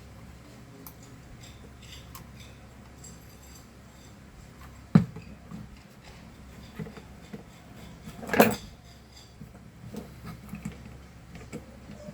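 Small clicks and knocks of needle-nose pliers working a brush holder out of a handheld vacuum's motor, with a sharp knock about five seconds in and a louder clatter a few seconds later.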